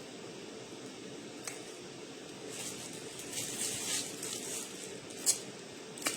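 Faint handling and eating noises over a steady room hiss: a small click, then a stretch of soft rustling and smacking, then a sharper click near the end.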